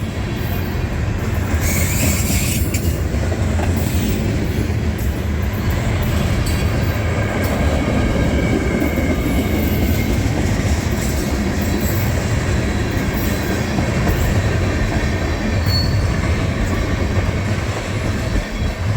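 Freight train cars rolling past close by: a steady, loud rumble of wheels on rail, with a faint squeal from the wheels now and then.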